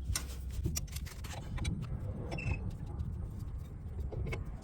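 Scattered light metallic clicks and taps of a 7/8-inch wrench working a bolt loose, over a steady low rumble.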